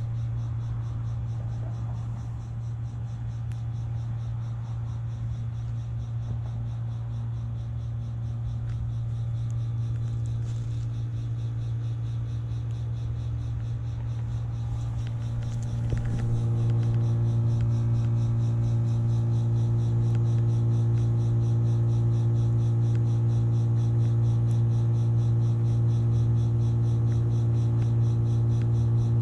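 Vintage 1981 BDP 3-ton heat pump running during its defrost cycle, a steady low electrical hum with steady higher tones over it. About halfway through, the hum grows louder and fuller and holds there.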